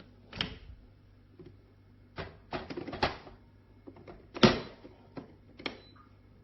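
Irregular clicks and knocks of hard objects being handled and set down, about a dozen strokes, the loudest about four and a half seconds in, over a faint low hum.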